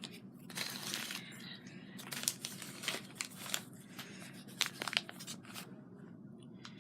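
Crinkling and rustling of craft materials being handled, with scattered light clicks and taps, most frequent in the first five seconds.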